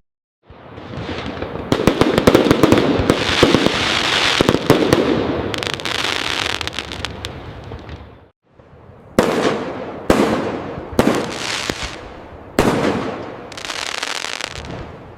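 Fireworks: a dense volley of crackling aerial bursts full of sharp cracks that fades out, then, after a brief gap, a run of about five separate bangs, each trailing off in a rumbling echo.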